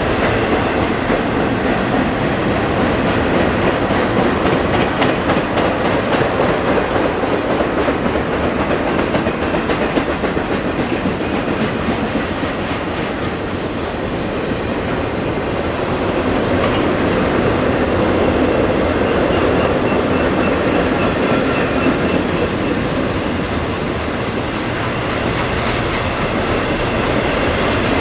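Cars of a long BNSF intermodal freight train rolling slowly past, with a steady rumble of wheels on rail and a clickety-clack over the rail joints.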